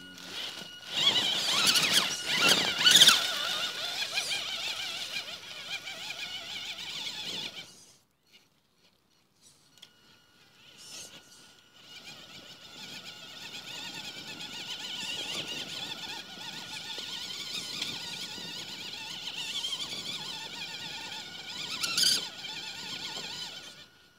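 Radio-controlled truck's motor and drivetrain whining, with a steady high tone running under it, in two stretches with a short break about eight seconds in. There are a few louder surges near the start and near the end.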